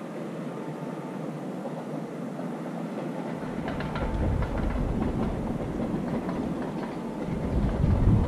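Distant express train running along the line in the valley below: a steady rumble with clatter of wheels on rail. A deeper rumble swells about three and a half seconds in and again near the end.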